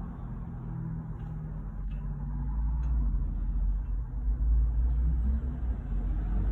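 BMW 440i's turbocharged inline-six idling, heard from inside the cabin as a low steady rumble and hum, with a couple of faint clicks about two and three seconds in.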